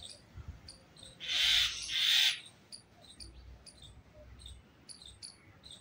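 Birds calling: a steady series of short, high chirps about twice a second, and two harsh squawks a little past a second in, which are the loudest sound.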